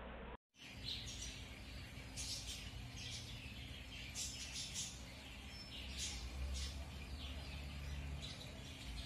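Small birds chirping in short, repeated high calls over a steady low hum, after a brief dropout about half a second in. A low rumble swells between about six and eight seconds.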